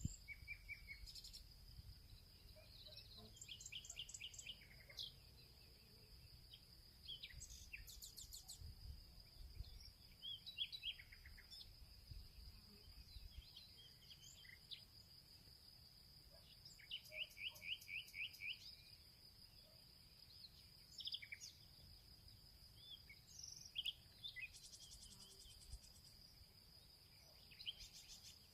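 Several songbirds chirping and trilling, some in quick runs of repeated notes, over a steady high insect drone and a faint low rumble.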